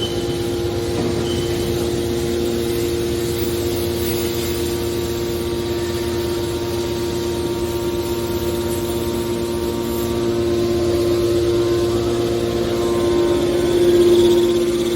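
Hydraulic metal baler running: a steady pump hum with a strong drone, growing louder from about two-thirds of the way in and swelling to a peak near the end, as the machine comes under load.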